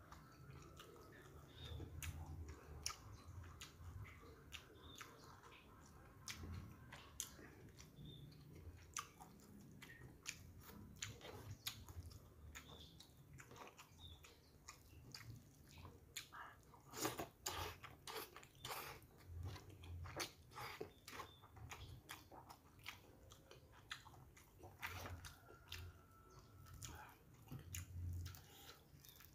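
Faint, close chewing and mouth clicks of a person eating noodles, rice and fried fish by hand, with many small sharp smacks, a denser run of louder clicks about two-thirds of the way in.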